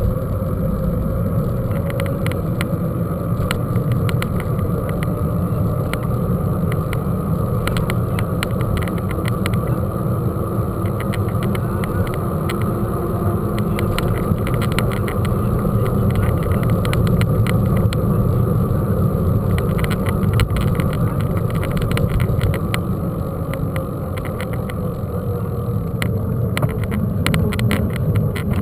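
Mountain-bike ride noise from a bike-mounted or rider-worn camera: steady wind rumble on the microphone with frequent clicks and rattles from the bike over a rough trail, busier in the second half.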